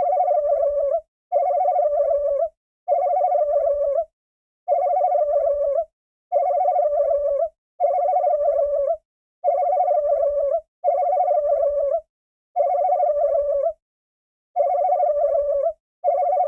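A looped trilling sound effect: the same rapid, ringing trill repeated about eleven times, each lasting roughly a second with short silent gaps between.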